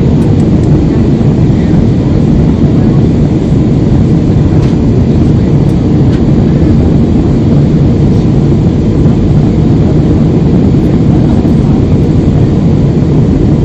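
Steady, loud noise inside a jet airliner's passenger cabin: engine and airflow noise, mostly low in pitch, holding even throughout.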